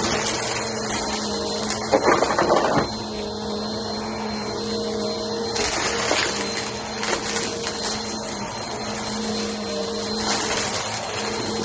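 Vacuum cleaner running steadily over carpet with a steady motor hum. A louder rattling burst comes about two seconds in, and a few short clicks follow later, as dry cereal debris is sucked up.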